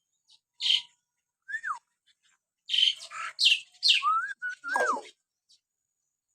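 Hill myna (beo) calling: short clear whistles that rise then fall in pitch, mixed with harsh, noisy calls, coming thickest in a quick run of calls from about three to five seconds in.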